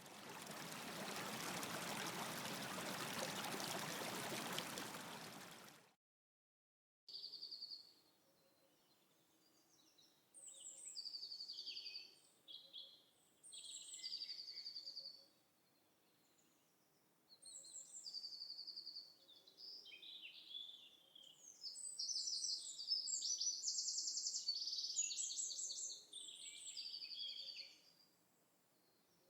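Songbirds singing outdoors in short, high, repeated phrases and fast trills, busiest in the second half. Before them, a steady rushing hiss lasts about six seconds and cuts off suddenly.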